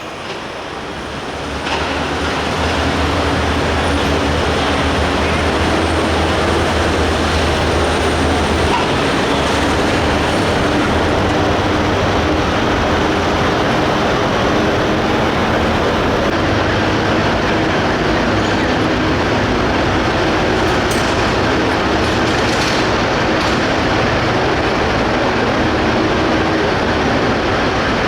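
Super stock pulling tractor's turbocharged diesel engine running flat out during a pull: a loud, steady roar that opens up about two seconds in and holds.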